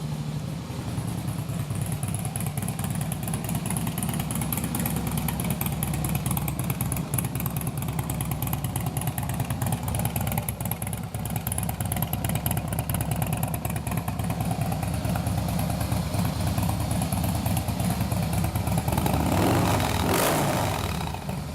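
Harley-Davidson Screaming Eagle 110-cubic-inch fuel-injected V-twin with a Bassani 2-into-1 exhaust, idling steadily just after start-up, with a brief louder swell near the end.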